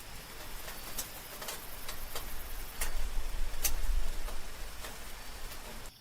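Night rain with irregular raindrops ticking sharply on a hard surface over a soft hiss of rain. A low rumble swells about three seconds in and fades again.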